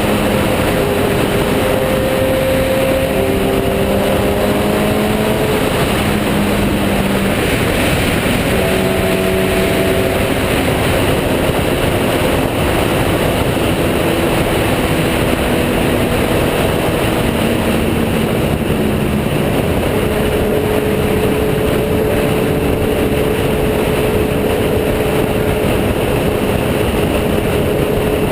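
A sport motorcycle being ridden at speed: a steady rush of wind and road noise over the microphone, with the engine note underneath holding and then shifting pitch every few seconds as the revs change.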